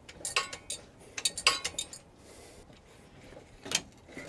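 Sharp metal clinks of a wrench on the crankshaft of a seized engine as it is worked loose. The clinks come in a few quick clusters over the first two seconds, with one more near the end.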